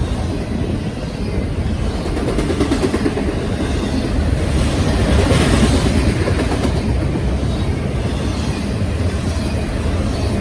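Norfolk Southern freight train rolling past, a steady loud rumble of wheels on rail that swells a little about halfway through.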